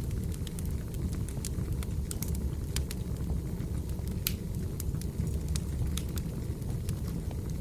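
Wood fire burning with a steady low rumble and irregular, sharp crackles and pops of burning firewood, one louder pop a little past the middle.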